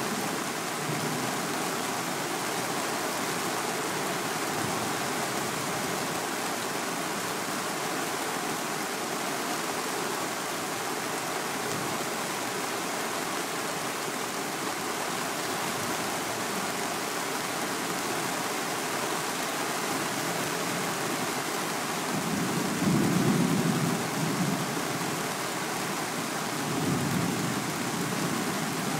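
Heavy rain falling steadily in a thunderstorm, with a low rumble of thunder swelling up twice near the end.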